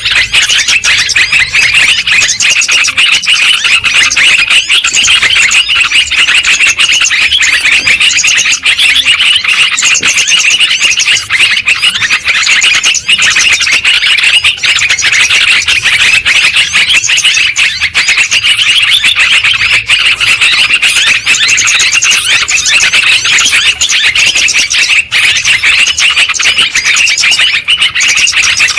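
Yellow-vented bulbuls (trucukan) chattering noisily, a dense, unbroken stream of quick bubbling calls from several birds overlapping.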